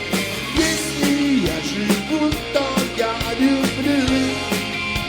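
Live rock band playing: a drum kit keeping a steady beat under a gliding melodic lead line, with no sung words.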